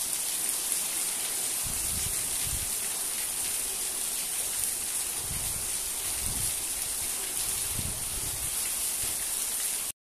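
Steady rain hissing down, with water from a full blue plastic water tank overflowing and splashing down its side. A few dull low rumbles come and go under the hiss.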